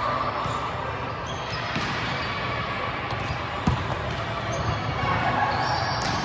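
A volleyball struck once, a sharp smack a little past halfway through, over a steady din of voices and movement in a gym.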